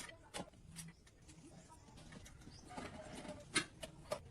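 A few sharp knocks, the loudest about three and a half seconds in, with a faint bird call in the background.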